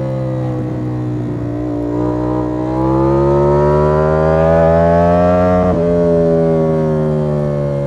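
Ducati Panigale V4 S's 1103 cc V4 engine pulling hard: the revs climb steadily for about five seconds, drop sharply at an upshift, then ease slowly lower.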